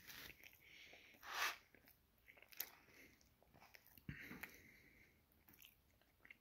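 Faint chewing and mouth sounds of a person eating a brisket sandwich, with a short louder noise about a second and a half in.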